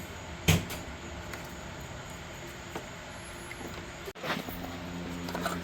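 A single sharp click about half a second in, typical of an electrical connector being unclipped from an alternator, over a steady low background hum. The sound cuts out for an instant about four seconds in.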